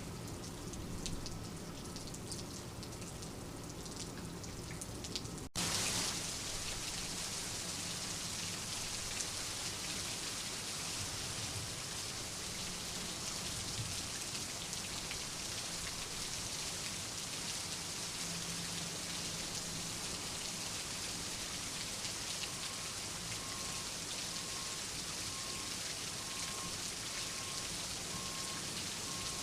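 Steady rainfall. For the first five seconds or so, separate drops tick over a light hiss; then the sound cuts abruptly to a denser, even rain hiss that holds steady.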